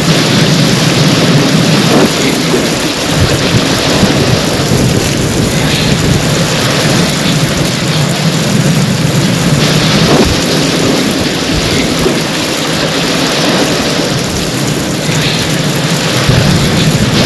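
Heavy rain falling steadily in a dense hiss, with low rumbles of thunder swelling a few times.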